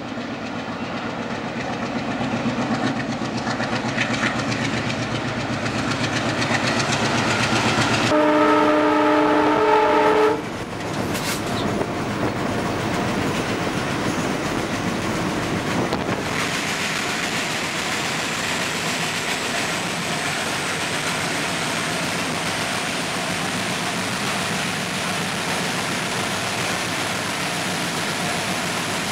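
A train running: the locomotive's engine noise builds as it approaches, and its horn sounds one chord for about two seconds, eight seconds in, the loudest moment. The horn cuts off, and the steady running noise of the train on the rails carries on.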